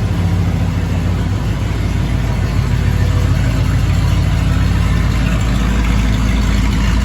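Carbureted 7.5-litre 460 V8 of a 1987 Ford Econoline E350 van idling steadily while it warms up after a cold start. The low exhaust rumble grows a little louder about halfway through.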